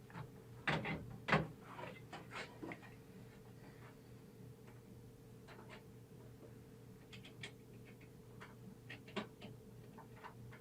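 Scattered light clicks and knocks of hand work with tools and small parts, loudest and most frequent in the first couple of seconds, over a faint steady electrical hum.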